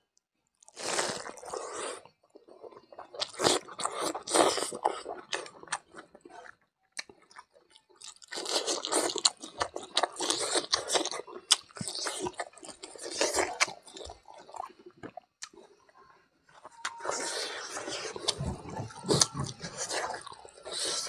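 Close-up mouth sounds of a person chewing and crunching handfuls of rice with cooked mithun intestine and raw green shoots. The chewing comes in spells of a few seconds with short pauses between them.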